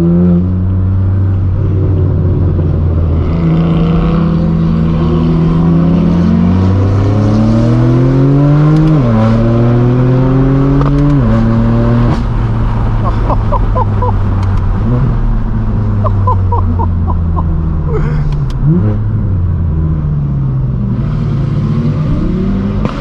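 Straight-piped BMW M4 F82's twin-turbo inline-six accelerating hard through the gears, its pitch climbing and then dropping sharply at upshifts about nine, eleven and twelve seconds in. It then runs at steadier revs with short exhaust crackles, and gives a quick rev blip on a downshift near the end.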